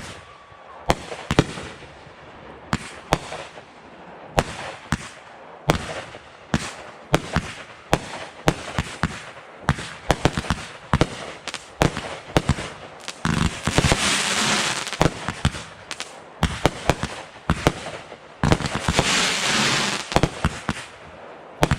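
Fireworks going off in an irregular string of sharp bangs, several a second at times. Twice, once past the middle and once later, a dense crackle lasts about two seconds.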